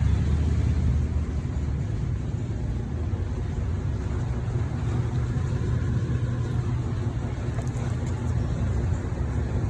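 Steady low mechanical drone at an even level, with no breaks or changes.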